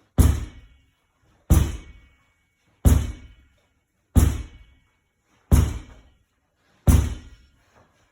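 A ball striking a wall in a steady rep rhythm: six hard thuds about every 1.3 seconds, each ringing off briefly.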